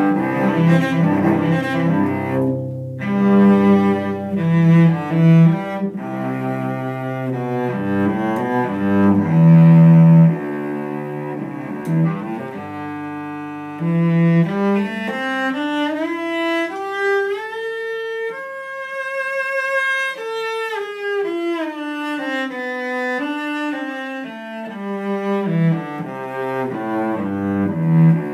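Solo bowed cello, an Eric Hausner 2002 full-size cello with Spirocore Tungsten G and C strings, played unaccompanied. It plays a run of low notes, then climbs step by step to a high note held with vibrato about halfway through, and comes back down to the low register near the end.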